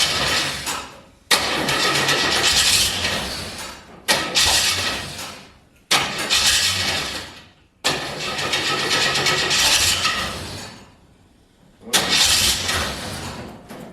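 A 4-litre straight-six Chevy engine being cranked over with the choke on, in a series of about six separate attempts, each starting suddenly and fading out after one to three seconds, with a longer pause before the last. It coughs but will not run: it is short of fuel, which has not yet come through the mechanical fuel pump.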